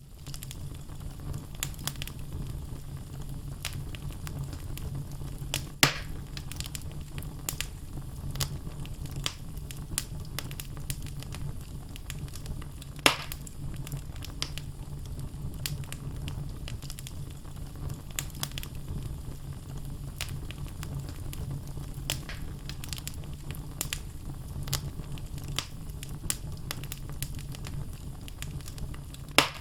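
Wood fire burning in a fireplace: logs crackling continually over a steady low rumble. There are sharp, loud pops about six seconds in, about thirteen seconds in, and again near the end.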